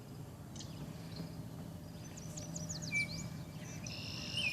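Songbirds singing over a faint steady background hum, among them a red-winged blackbird: a quick run of short chirps a little past two seconds in, then a held high note and further calls near the end.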